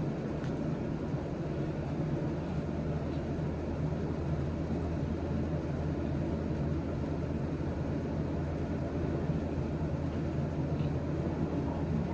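A steady low rumble with a constant low hum, unchanging throughout.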